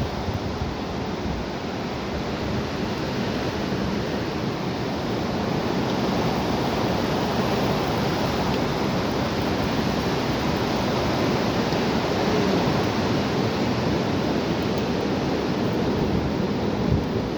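Strong wind blowing in a steady loud rush, getting a little louder partway through, with gusts buffeting the microphone in low rumbles.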